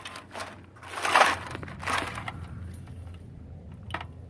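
Gravel and debris crunching a few times, loudest about a second in, over a low steady hum.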